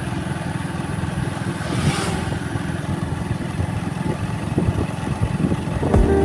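Motorcycle engine running at a steady cruise while riding, with a low steady rumble and road and wind noise; a brief rush of wind about two seconds in.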